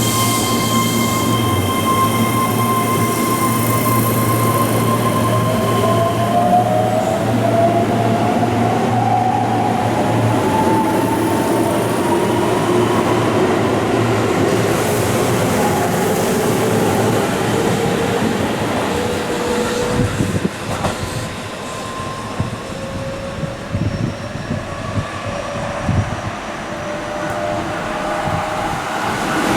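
Keihan electric train pulling out of the station: its motor whine rises in pitch as it accelerates, over steady wheel and rail noise. After about twenty seconds the sound fades a little, with scattered clacks of the wheels passing over rail joints.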